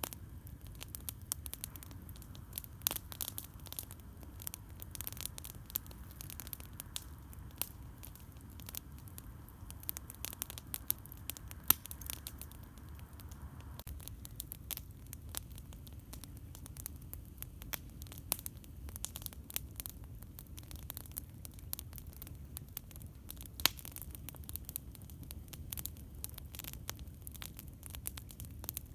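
Campfire crackling: irregular sharp pops and snaps of burning wood, a few louder ones standing out, over a steady low rumble.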